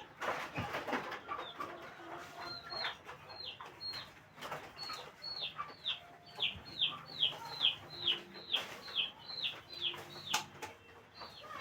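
Kampung chickens clucking, joined from about two and a half seconds in by a quick run of short, high calls that each fall in pitch, about two a second.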